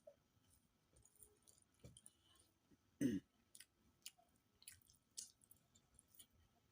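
Quiet chewing and wet mouth sounds of a person eating curry and rice, with small lip smacks and clicks scattered throughout and one louder, short low sound about three seconds in.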